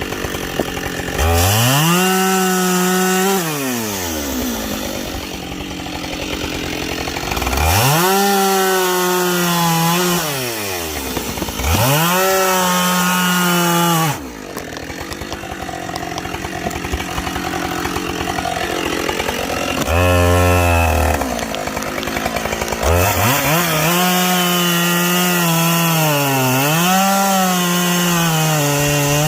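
Gas chainsaw bucking logs: the engine revs up to full throttle and holds there through each cut, then drops back toward idle, about five times. In the last cut the pitch sags briefly under load before climbing again.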